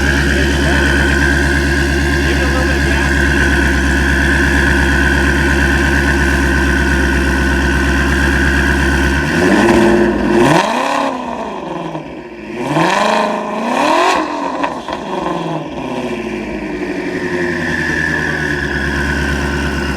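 Twin-turbo Shelby GT350R's 5.2-litre flat-plane-crank V8 idling steadily through a loud exhaust, then revved a few times about halfway through, the pitch sweeping up and falling back, before settling back to idle.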